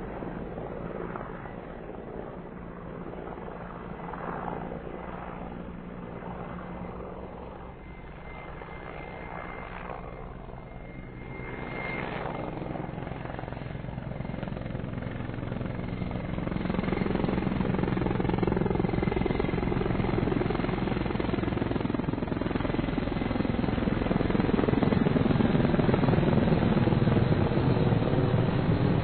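Mil Mi-35M twin-turboshaft helicopter in flight, its rotor chopping in a fast, even beat over the engine noise. It grows much louder in the second half.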